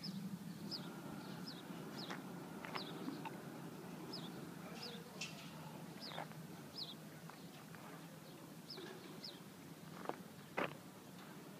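Small birds chirping: short, high, falling chirps repeated every second or so over a low steady hum. Two sharp knocks come near the end, the second the loudest.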